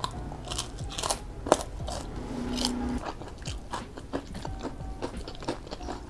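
Crisp fried tempeh being bitten and chewed, a string of sharp, irregular crunches.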